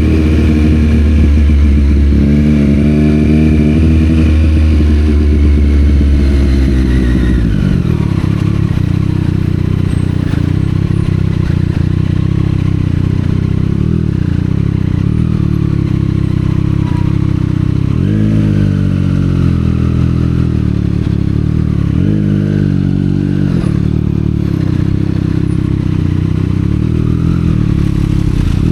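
Triumph Street Triple 765 R's inline three-cylinder engine through a Yoshimura exhaust, pulling under throttle, then dropping in pitch as the throttle closes about a quarter of the way in. It then runs low and steady, with a few short throttle blips that rise and fall.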